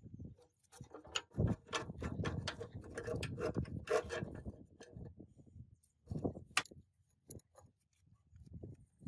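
Hand work on metal machine parts: a dense run of clattering and knocking for a few seconds, then scattered single knocks.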